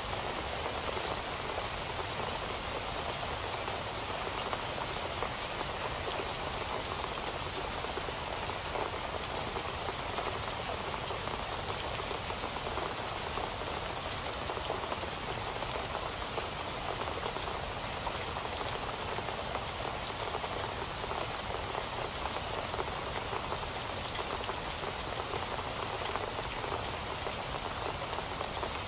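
Steady rain falling, a dense even patter of many drops landing on a surface.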